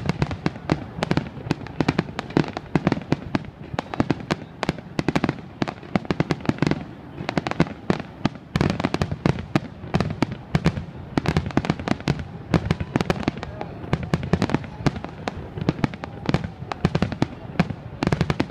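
Fireworks going off in a dense, continuous barrage of rapid bangs and crackles, many each second.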